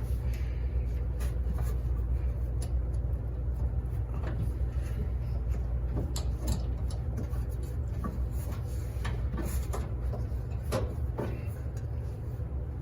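Steady low hum of commercial laundry machines running, with scattered light clicks and knocks of hand work on a washer.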